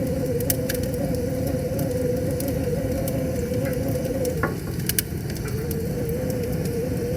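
Campfire crackling with scattered sharp pops over the steady rush of a flowing river. A wavering hum sits under it and drops out for a couple of seconds midway.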